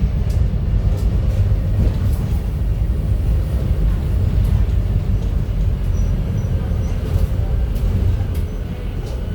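Scania F250HB bus engine running under way, a steady low rumble. Scattered short clicks from the bus sound over it.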